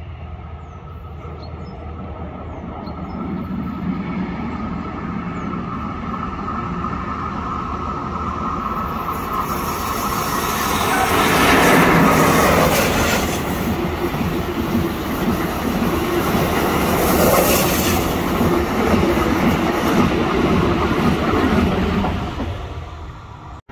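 Passenger train approaching and passing, its wheels rumbling and clattering on the rails. The sound builds through the first half and is loudest about halfway through, with a second swell later on. It drops away sharply near the end.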